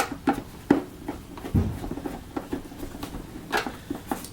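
Plastic vacuum cleaner housing being handled and screwed back together: irregular clicks, scrapes and small knocks of screws and plastic parts, with a dull thump about a second and a half in.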